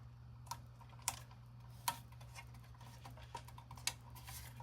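Scattered light clicks and taps from hands handling small parts, irregularly spaced, with a few sharper clicks standing out, over a steady low hum.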